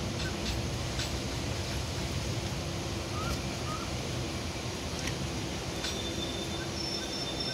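Passenger train at a station platform, heard from its open doorway: a steady low rumble with a held hum. A few short chirps come through in the middle, and a thin high whine starts near the end.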